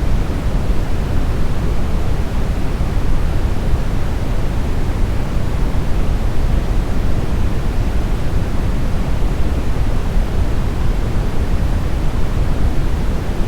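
Steady, smoothed brown noise: a continuous deep hiss, strongest in the lows and rolling off toward the highs, with no changes or events.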